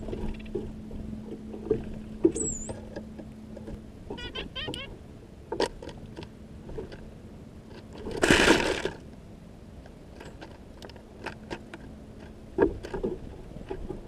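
A white-breasted nuthatch flying into the feeder, a loud flurry of wingbeats lasting about a second, eight seconds in, followed by scattered light clicks and taps on the birdseed. A short high bird call sounds about two seconds in.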